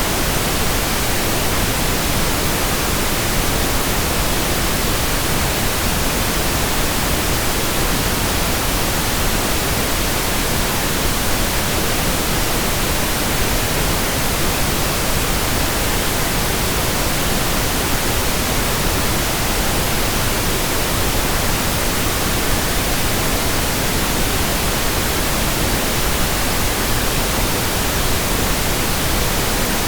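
Steady pink noise: an even, unchanging hiss with no events.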